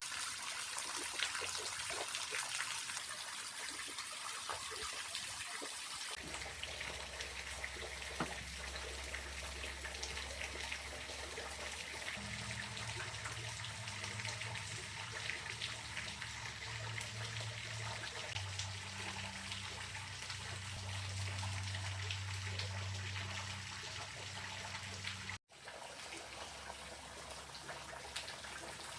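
Steady trickling water. A low hum joins it about six seconds in and shifts pitch in steps, and the sound cuts out for an instant near the end.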